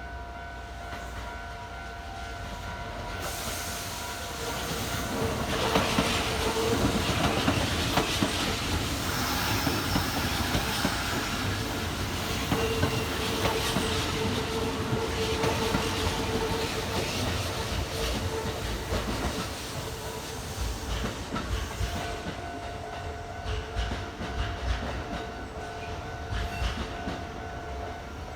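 A Kintetsu electric train passing close by, its wheels clacking over the rail joints; it builds up a few seconds in and dies away near the end. A level-crossing warning bell rings steadily underneath.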